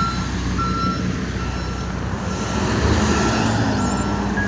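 A truck's engine running steadily, with a reversing alarm beeping at one pitch a little more than once a second, the beeps fading after about two seconds. Traffic noise rises about halfway through.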